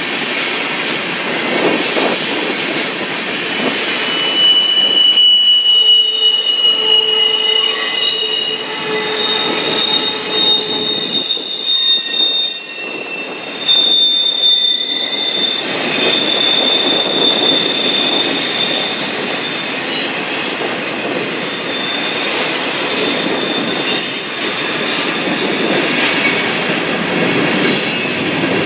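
Freight cars of a mixed freight train (tank cars, boxcars, covered hoppers) rolling past at close range, steel wheels squealing in several high steady tones from about five to sixteen seconds in and again briefly around twenty-four seconds, over a steady rumble with wheels clicking across the rail joints.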